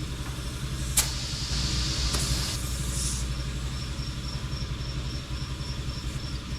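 An engine runs steadily with a low rumble. There is a click about a second in, then a short hiss of air, like air being put into or let out of a tractor tyre, which stops about three seconds in.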